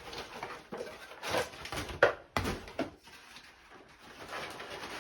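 Cardboard packaging being handled and shifted while a stick vacuum is unpacked: irregular rustling with a few sharp knocks, the clearest about two seconds in.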